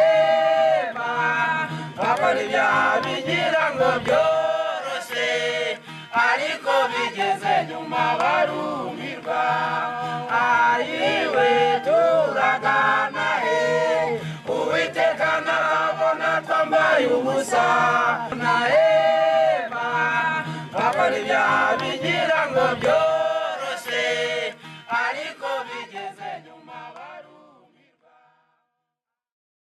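A group of voices singing, choir-like and chant-like, over a steady low note, fading out a couple of seconds before the end.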